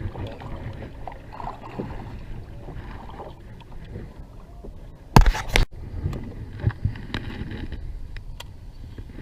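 Sounds of a kayak on open water: water sloshing and irregular knocks against the hull. About five seconds in there is a loud noisy burst that stops abruptly.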